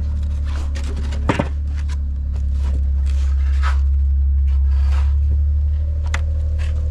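Steady low drone of a nearby engine running, with a few scattered knocks and scrapes of work on a building site.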